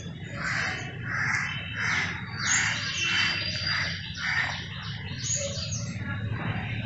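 A bird calling in a quick series, about seven similar calls roughly two a second, stopping after about four and a half seconds, over a steady low hum.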